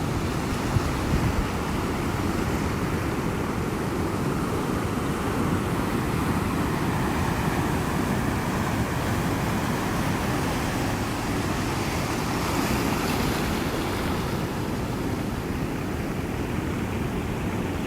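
Ocean surf washing in a steady, continuous rush, with a gentle swell about two-thirds of the way through.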